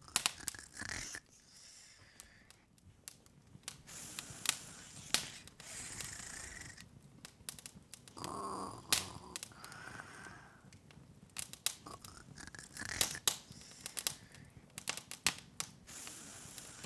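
Wood fire crackling in an open fireplace: irregular sharp pops and snaps over a soft hiss.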